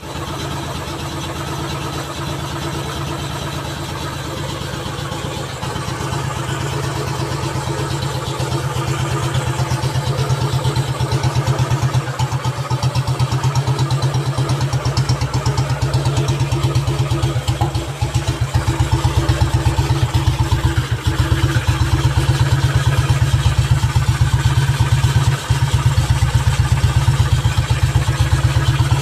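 Old motorcycle engine running at idle with an even, pulsing exhaust beat, growing gradually louder.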